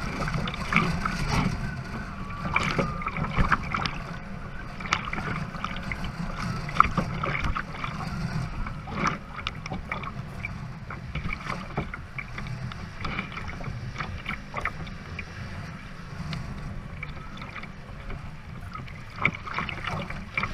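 Sailboat working through high waves in strong wind: water rushing and slapping against the hull over a steady low rumble, with frequent short knocks and a few brief squeaks from the boat.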